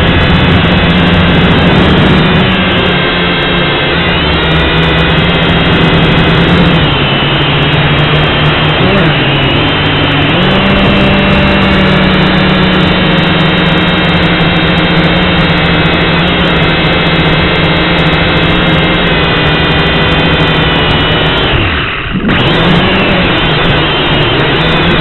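Syma X5C toy quadcopter's motors and propellers droning with a layered whine. The pitch shifts up and down as the throttle changes, and near the end it falls away briefly and then climbs back.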